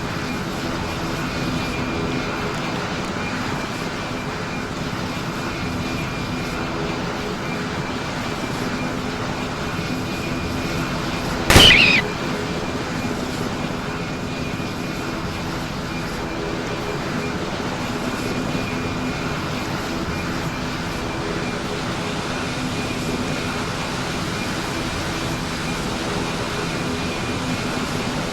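Aircraft engines running steadily with a constant hum and several held tones, broken by one short, sharp, loud sound about twelve seconds in.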